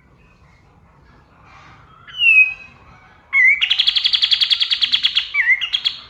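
A kapas tembak songbird singing: one falling whistled note about two seconds in, then a loud, fast rattling trill of about ten notes a second for around two seconds, ending in a few short notes.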